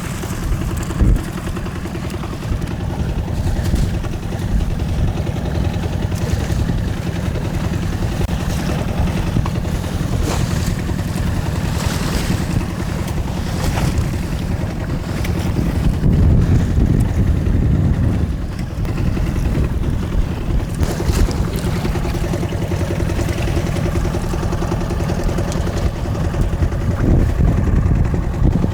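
Small fishing boat's engine running steadily in rough wind and waves, with scattered knocks and clatter on deck.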